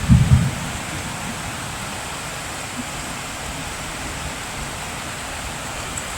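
Steady heavy rain, an even hiss, with a brief low rumble in the first half-second.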